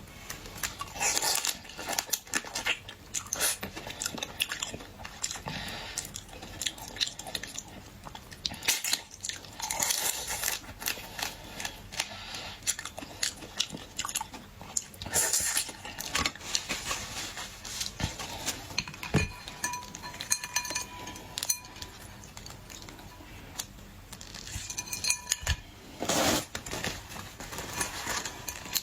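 Chewing and biting into boiled shrimp and shellfish, with irregular crunches and clicks.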